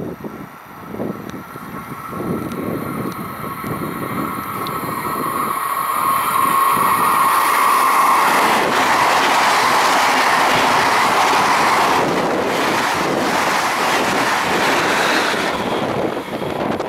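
Fast electric passenger train approaching and passing through at speed: a rush of wheels on rail that builds to its loudest about eight seconds in and holds for several seconds, easing near the end. A whine sounds during the approach, and the wheels clatter over the rails as the coaches go by.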